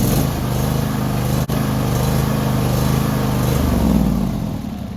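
John Deere garden tractor engine running steadily just after starting, its starter having been fed through a screwdriver bridging a poor battery-terminal connection; the sound dies away near the end.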